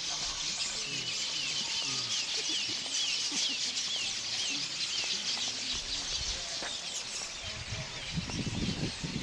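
Birds chirping over a dense high-pitched chorus, one bird repeating a short call about twice a second for a few seconds in the first half. A low rumble with a few thumps comes in during the second half.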